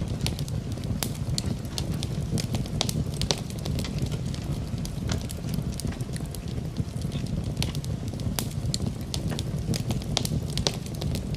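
Fireplace wood fire crackling, with frequent irregular sharp pops over a steady low rushing background, mixed with rain.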